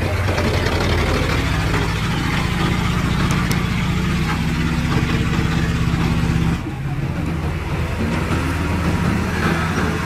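Heavy diesel engine of earthmoving machinery running steadily with a deep, even note. About two-thirds of the way through the sound cuts abruptly to a different, rougher engine running.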